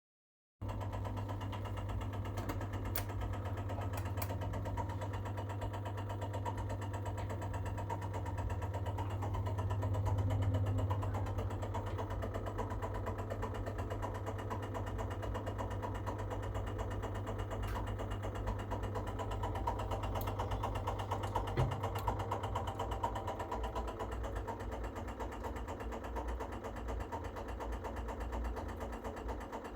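Baxi Duo-tec gas combi boiler running as it starts up for heating, with a rapid knocking over a steady low hum and a few sharp clicks. The knocking is the fault the owner is asking about, cause unknown.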